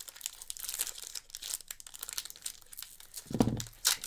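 Foil Pokémon booster pack wrapper crinkling as it is handled and torn open, with a louder knock from handling a little over three seconds in.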